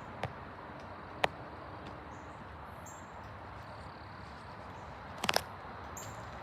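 Footsteps on a woodland trail: a few sharp cracks and clicks, one loud one just after a second and a quick cluster of three near the end, over a steady outdoor hiss. Faint high bird chirps come and go.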